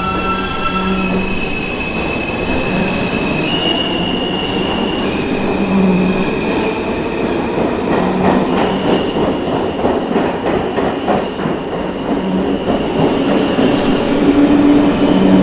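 New York subway train running, a steady rumble under a high whine that steps up and down in pitch. Rhythmic clicking of wheels over rail joints is heard through the middle.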